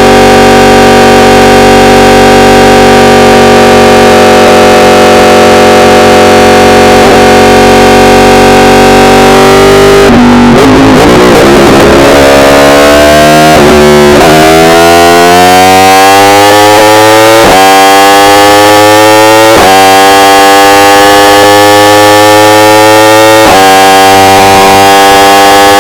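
Yamaha R1 inline-four engine holding steady revs for about ten seconds, then briefly off the throttle. It then pulls hard, its pitch rising in several sweeps, each ending in a sudden drop at an upshift. The recording is overloaded and distorted.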